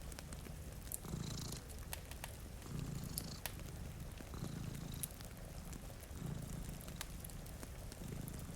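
A cat purring in slow, even cycles, each purr about a second long and repeating roughly every two seconds. Sharp little crackles of a wood fire sound over it.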